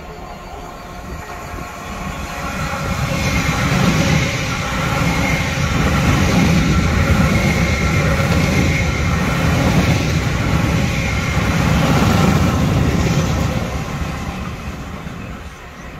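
A passenger train running through the station at speed without stopping. It builds up about two seconds in, stays loud for most of the pass, and fades away near the end.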